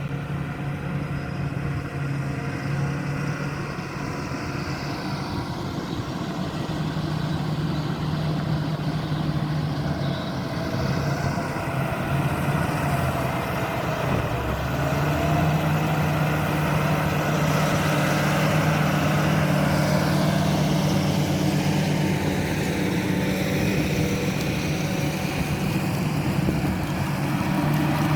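John Deere 8R-series tractor engine running steadily under ploughing work. Its note dips briefly about halfway through, then picks up again and runs louder to the end.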